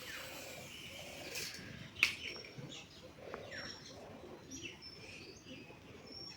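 Birds chirping and cooing, with short falling chirps and brief high notes. A small motor's high whine fades out in the first second and a half, and a single sharp click comes about two seconds in.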